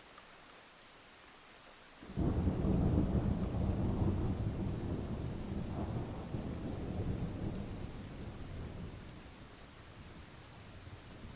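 Light rain hissing steadily, then about two seconds in thunder breaks in suddenly as a loud, low rumble that slowly dies away over the next several seconds, swelling a little again near the end.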